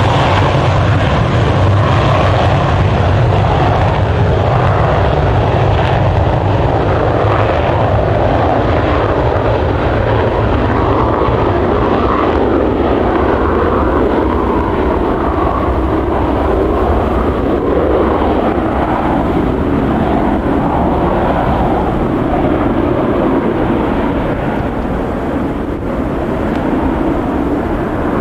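Douglas DC-8's Pratt & Whitney JT3D turbofans running loud, a rough noisy rumble. It grows duller over the second half as its higher part fades.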